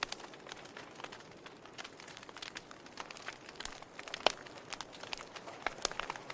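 Wood fire crackling in a fireplace: irregular sharp pops and snaps over a soft hiss, with one louder pop a little past the middle.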